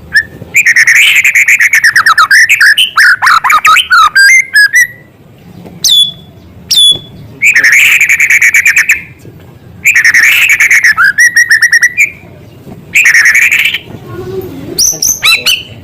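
White-rumped shama singing loud, varied phrases of rapid trills and whistles in bursts of a second or more with short pauses between, and two short whistle notes about six seconds in. This is a shama in full song, its song filled with small-bird call material.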